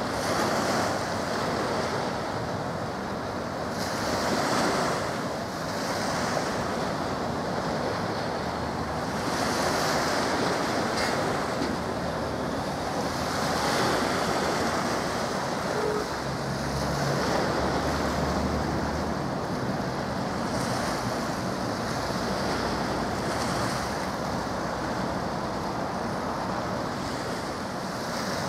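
Rushing noise of wind and waves, swelling and easing every few seconds, with a faint low hum for a few seconds around the middle.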